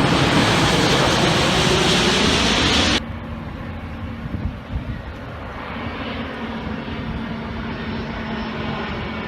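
Loud, steady engine noise that drops off suddenly about three seconds in to a quieter, steady engine hum with one low droning tone.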